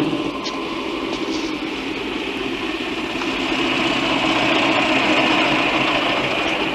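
Vintage open touring car's engine running as the car drives up and pulls in. It grows louder about four seconds in, then runs steadily.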